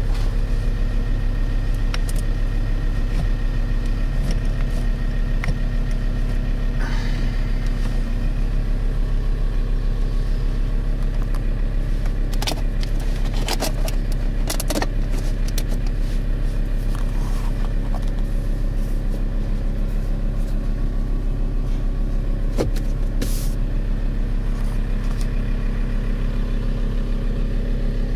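Alfa Romeo 159 2.4 JTDM's five-cylinder turbodiesel idling steadily, with a few light clicks scattered through the middle.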